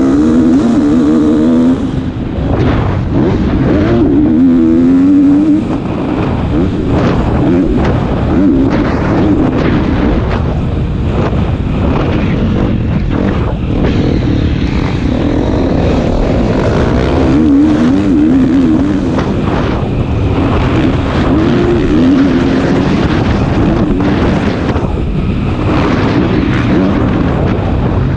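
KTM 250 SX-F four-stroke single-cylinder motocross bike engine revving hard, its pitch rising and falling again and again as the throttle opens and closes, over a steady rush of noise.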